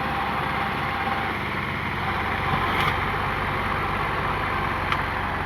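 Tractor engine running steadily, with a couple of short sharp clicks over it.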